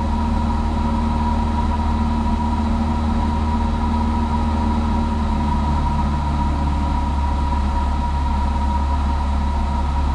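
Cessna 172's engine and propeller running as a steady drone in level flight, heard from inside the cabin, with a steady high tone above it.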